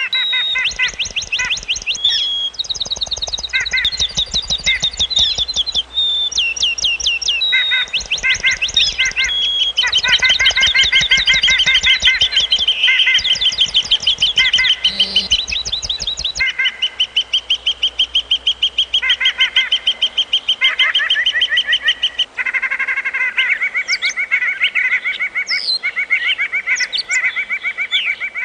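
Songbirds singing in fast, rapidly repeated trills and chirps, several voices overlapping without a break.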